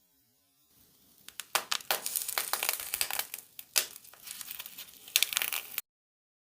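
Slime being squeezed and pressed by hand, giving a dense run of irregular crackles and pops that starts about a second in and cuts off suddenly near the end.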